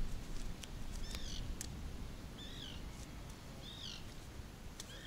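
A bird calling four times, each a short high call that rises and falls in pitch, about a second apart, with a few sharp clicks between and wind rumbling on the microphone.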